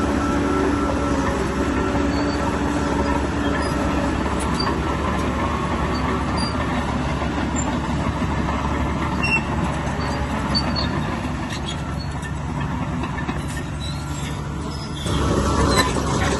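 Bulldozer's diesel engine running under load as it works, with steady machinery noise that jumps louder about a second and a half before the end.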